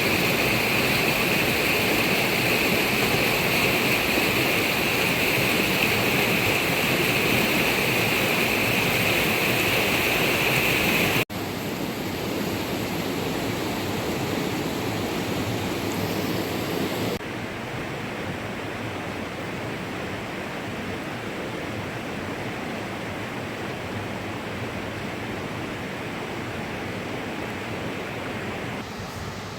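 Steady rushing water noise with no rhythm or pitch. It cuts abruptly to a quieter version about eleven seconds in and drops again a few seconds later.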